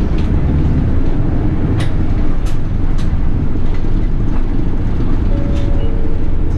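Inside a moving city bus: steady engine and road rumble, with a few sharp rattles. Near the end a brief two-note tone steps down in pitch.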